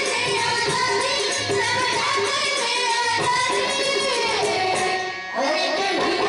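A girls' group singing a devotional bhajan to instrumental accompaniment with a steady, even beat. The music dips briefly just after five seconds in.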